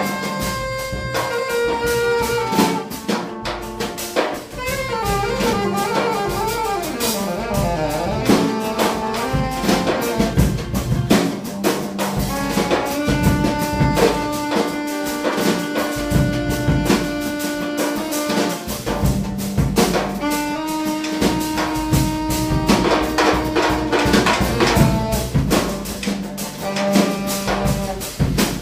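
Live improvised jazz from saxophone and two drum kits, with guitar: the saxophone plays gliding runs and long held notes over busy drumming.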